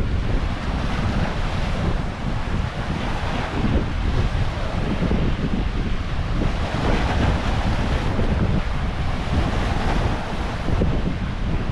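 Ocean waves breaking and washing in, with strong wind buffeting the microphone in a steady low rumble that swells and eases with the gusts.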